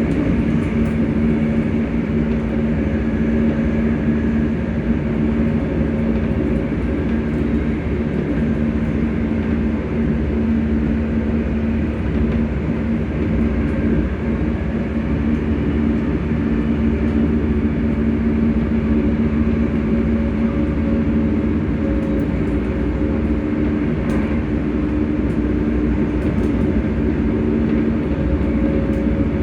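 Hitachi-built Class 385 electric multiple unit's traction motors humming, with a few steady tones held at constant pitch over the low rumble of the train running at a steady speed.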